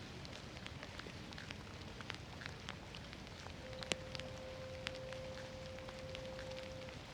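Steady rain, with scattered sharp ticks of drops landing close by. A steady tone comes in about halfway through and holds.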